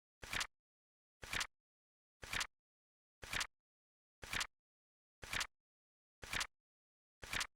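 Flip-clock flip sound effect: a short double-clack of a flipping card, repeated evenly about once a second as the countdown digits turn over.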